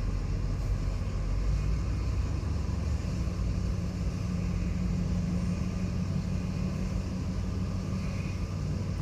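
Aircraft tow tractor's engine running steadily while pulling an Airbus A330-300, a low, even drone with a hum that strengthens slightly about three seconds in.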